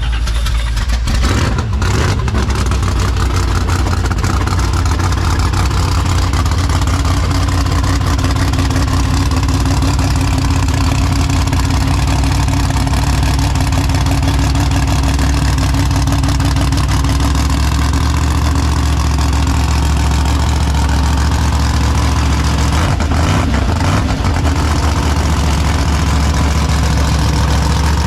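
Car engine running with a deep, steady exhaust rumble, with brief changes in the note about a second in and again near the end.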